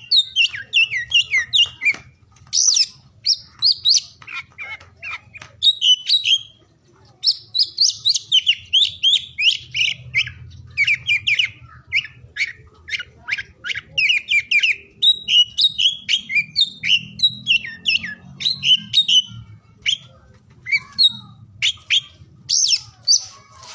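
Oriental magpie-robin (kacer) singing a fast, varied run of whistles and chirps, with brief pauses about two seconds in and again around six to seven seconds, over a faint low hum.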